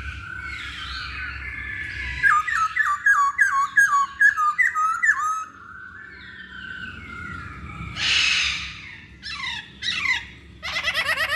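Masked laughingthrush (Poksay Hongkong) singing and calling. A long whistle leads into a quick run of about eight down-slurred notes, then a harsh rasp about eight seconds in, more slurred notes, and a fast chatter near the end.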